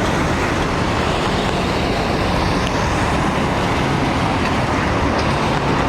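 Heavy truck engine running, a steady low rumble.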